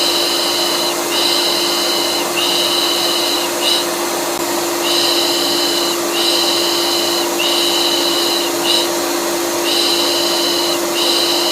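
Vacuum cleaner running steadily with a constant hum, overlaid by rhythmic 'shh' shushing: three long shushes and a short one, repeating about every five seconds. It is a looped white-noise lullaby for calming a colicky baby.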